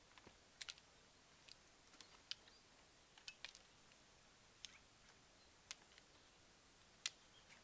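Near silence, broken by faint, irregular clicks and ticks, the sharpest of them about seven seconds in.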